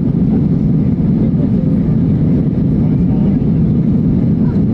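Steady low roar of engines and rushing air inside an airliner cabin during takeoff.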